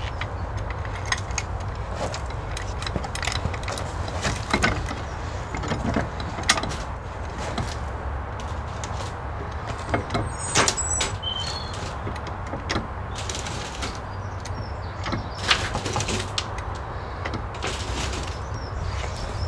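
Irregular knocks, clunks and scrapes of hand work while levering and pushing a metal-framed greenhouse back into place, over a steady low rumble. A bird chirps briefly about ten seconds in.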